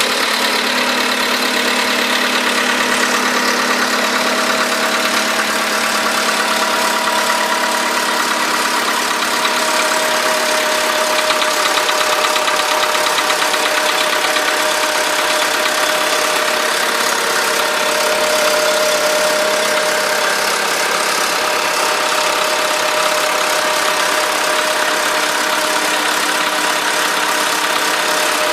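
VW Polo sedan engine idling steadily with a knock that sounds like valve tapping, which appeared right after the car's first scheduled service at 13,000 km.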